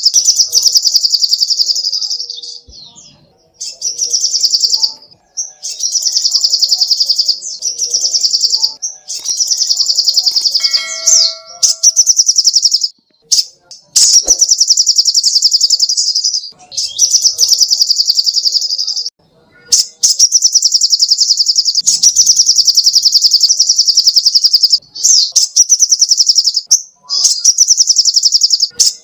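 Spiderhunter (sogok ontong) song: long, very fast high-pitched trills of rapidly repeated notes, in runs of one to three seconds with short pauses between them.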